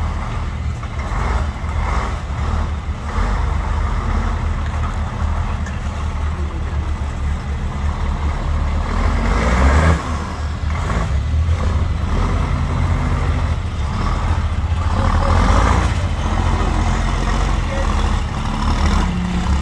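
A vehicle engine running with a steady low rumble, swelling briefly about halfway through and again near the end.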